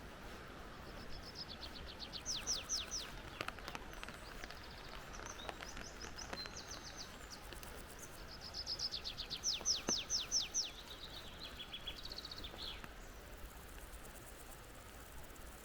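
A songbird singing twice, each time a quick run of high notes sweeping downward, with a few shorter phrases between. Under it is a faint steady background hiss.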